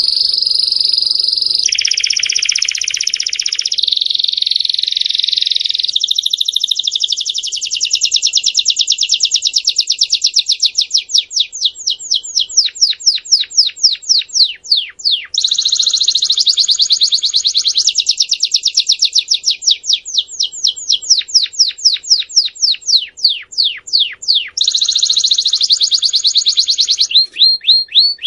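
Domestic canary singing one long continuous song, moving from one trill or roll to the next every few seconds. Some phrases are rapid series of falling whistled notes that gradually slow.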